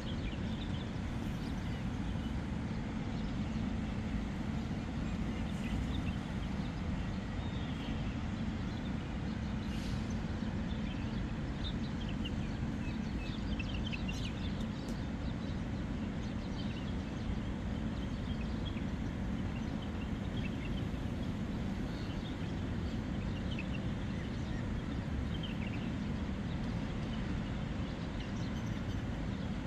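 Steady low rumble of outdoor background noise, with scattered short high chirps of birds, most of them about halfway through.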